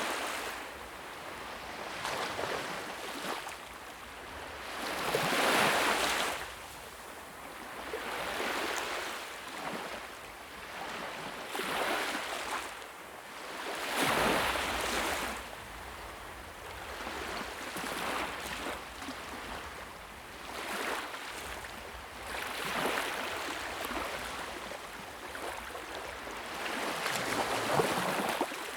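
Fire crackling in a fireplace, its hiss swelling and fading every few seconds, with scattered sharp pops.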